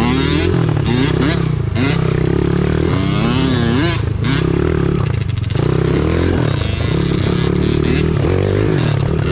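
Small single-cylinder pit bike engine being ridden hard, revved up and down again and again as the throttle is worked. The throttle is let off briefly about four seconds in and again about five seconds in.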